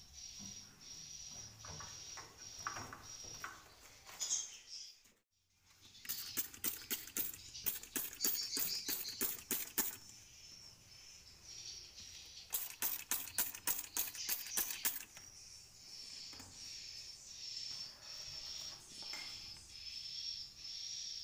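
Swiftlets chirping with high, repeated calls, broken in the middle by two runs of rapid, sharp clicking a few seconds each.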